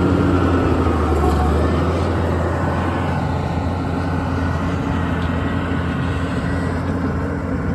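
Pickup truck driving: a steady engine hum with road noise, easing slightly quieter toward the end.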